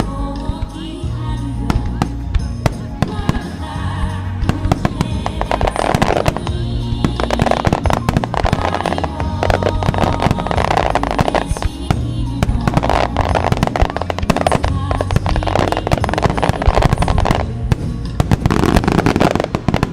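Aerial fireworks shells bursting and crackling in rapid, dense succession, fired in time with music played over loudspeakers, which is heard underneath.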